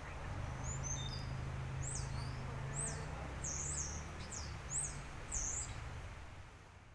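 Small songbirds chirping: a run of short, quick high sweeping chirps over a steady low rumble, with the whole ambience fading out near the end.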